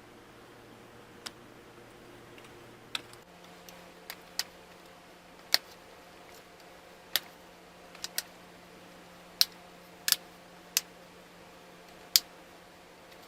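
About a dozen sharp, irregular clicks and taps from the Chromebook's plastic case and small parts being handled during the repair.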